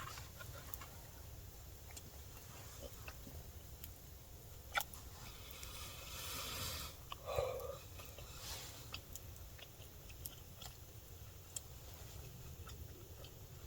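A man chewing a mouthful of campfire-grilled steak: faint mouth sounds with scattered small clicks, and a brief louder rustle about six to seven seconds in.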